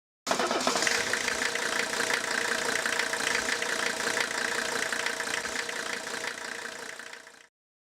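An engine running steadily, starting abruptly and fading away near the end.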